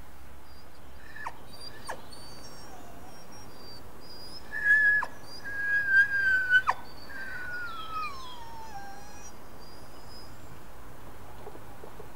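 Small birds singing and chirping in high, short phrases throughout. Partway through come a few louder whistled calls, the last one sliding slowly down in pitch, over a steady background hiss.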